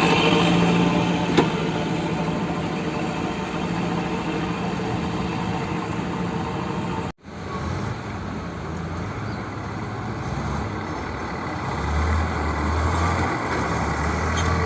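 Heavy diesel engine running steadily. About seven seconds in, a brief dropout is followed by a lower, rougher engine note that grows louder near the end.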